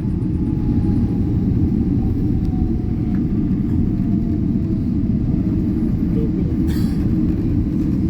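Airliner cabin noise as the jet rolls along after landing: a steady, loud low rumble, with a faint whine falling slowly in pitch as the engines spool down.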